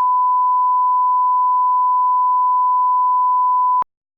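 Steady 1 kHz line-up test tone, a single pure pitch held at constant level, cutting off abruptly near the end.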